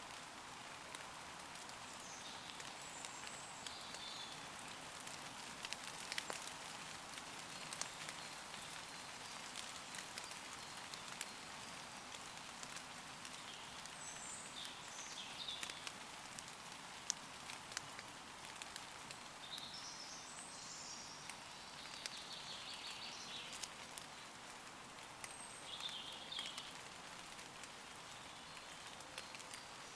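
Light rain falling on leaves, a steady hiss with scattered drops ticking close by. Now and then distant woodland birds sing short high phrases, several times.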